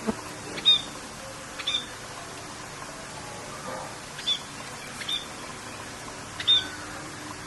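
Bird calls, about six short sharp notes that sweep down to a high whistle, spaced irregularly over a steady hiss of rain.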